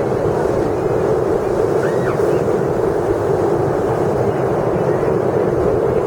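Stormy sea surf with strong wind blowing on the microphone, a loud, steady noise without pauses.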